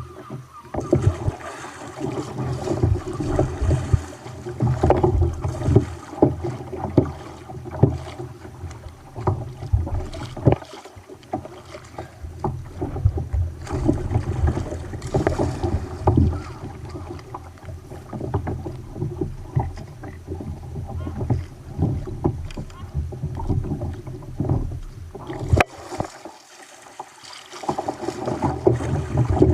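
Kayak on rough sea, with water splashing and slapping against the hull in an uneven, choppy rhythm. The water noise eases briefly near the end, then picks up again.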